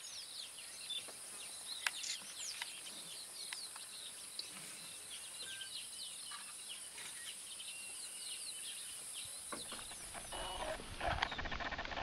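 Wild birds chirping and calling: many short, quick, falling chirps, with several birds overlapping, over a steady high-pitched hiss. Near the end the sound changes abruptly to a louder, rougher noise.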